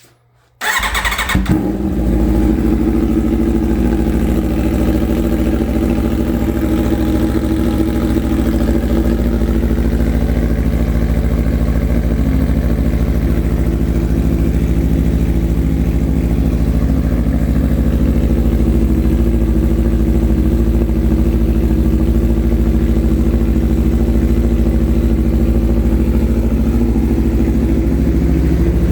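Aprilia 1100 Factory V4 motorcycle engine, breathing through an SC-Project S1 low-mount exhaust, firing up under the starter under a second in and then idling loud and steady.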